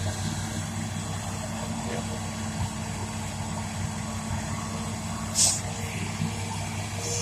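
Hitachi Zaxis200-5G excavator's Isuzu 6BG1 six-cylinder diesel running steadily, with a short, loud hiss about five seconds in.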